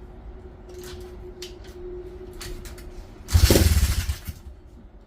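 140cc single-cylinder pit bike engine on choke, almost starting. A low rumble, then about three seconds in the engine fires loudly for about a second and drops away again as its pitch falls.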